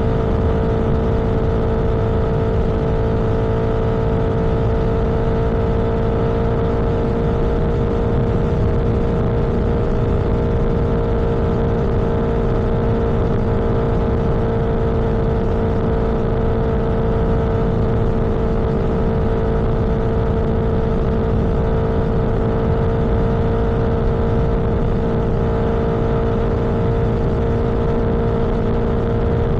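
Vehicle engine and road noise at a steady cruise: an even drone that holds one pitch, over a constant rush.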